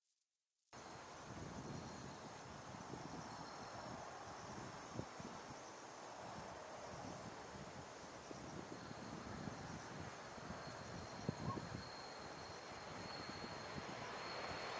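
Steady insect trill over low outdoor background noise, cutting in abruptly just under a second in. Near the end, the rising rush of an approaching Tokaido Shinkansen bullet train begins.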